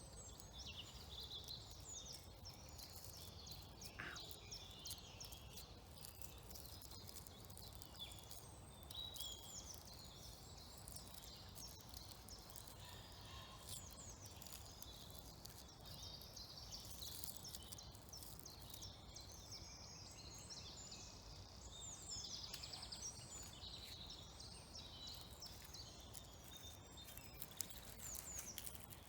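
Faint woodland birdsong: several birds chirping and warbling in short, high phrases throughout, over a low, steady background rumble.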